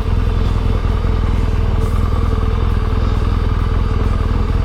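Motorcycle engine running at a steady speed while being ridden, with an even pitch throughout.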